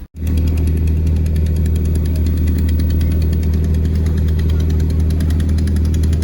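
Fishing boat's engine running at a steady speed: a loud, deep, even hum with a fast regular clatter. It cuts in abruptly just after the start.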